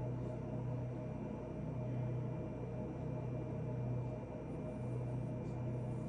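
Steady low hum that swells and fades about every two seconds, with a couple of faint light ticks.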